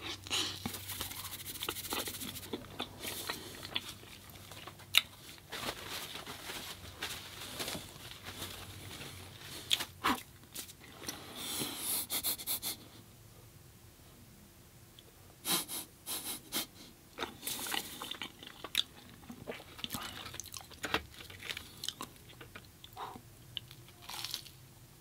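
A person chewing and biting food close to the microphone, with irregular clicks and mouth noises that come in spells separated by short pauses.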